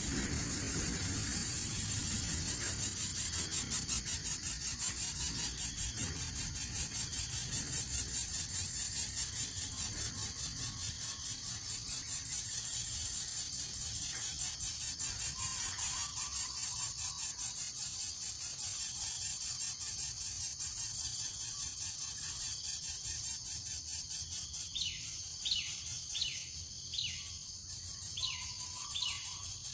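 Steady, high-pitched insect chorus pulsing rapidly. About four seconds from the end, a bird gives a quick series of short falling chirps.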